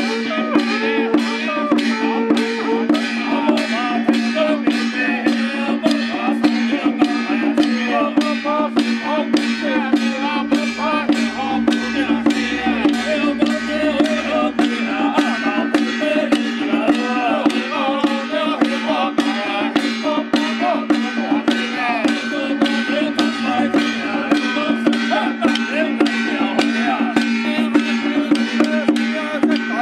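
Temple procession music played loudly. A wavering melody runs over a steady low drone, with percussion striking evenly about twice a second.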